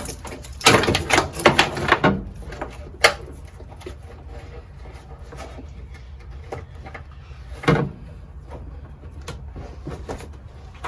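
Knocks and clatter of tools and parts being handled while a car is taken apart: a burst of knocks in the first two seconds, a sharp knock about three seconds in, and a heavier thump near eight seconds.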